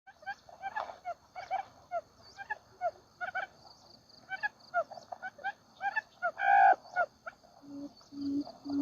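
Wild quail calling: a run of short chirping notes, about two a second, and a louder harsh call about six and a half seconds in. Near the end come evenly spaced low hooting notes.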